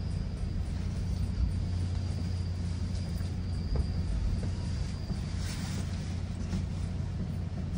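GO Transit commuter train running along the track, heard from inside the coach as a steady low rumble. A thin high whine stops about five seconds in, followed by a brief hiss.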